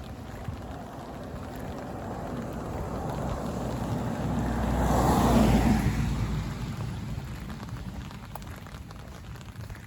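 A car passes by on a wet road. The tyre hiss swells to a peak about halfway through and then fades, over a steady patter of rain.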